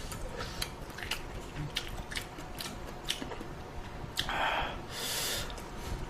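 Close-miked eating sounds of a person chewing ramen: a scatter of small wet mouth clicks, with two short hissing bursts about four and five seconds in.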